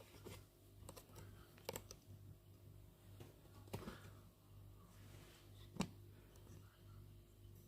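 A few faint, scattered clicks and light knocks over a low, steady hum.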